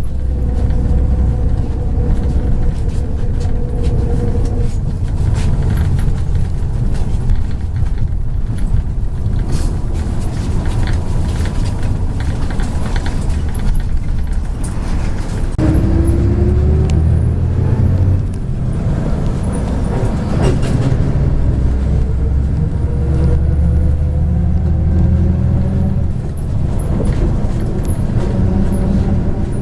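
Inside a MAZ 103 bus on the move: a steady diesel engine drone and road rumble, with frequent small rattles and clicks from the cabin. About halfway through, the engine note rises for a few seconds as the bus accelerates.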